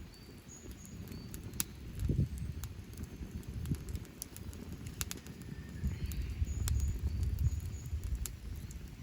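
Wood campfire crackling, with sharp pops scattered throughout, over a steady low rumble. Short, high bird chirps sound several times in the background.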